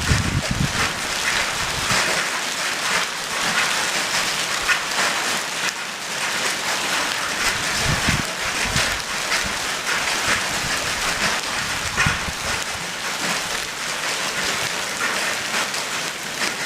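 Hail and rain falling hard: a dense, steady patter of countless small impacts, with brief low rumbles a couple of times.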